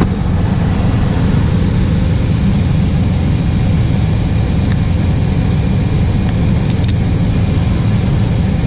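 2004 Chevy Blazer's 4.3-litre V6 idling steadily just after an oil change, with a few light clicks partway through.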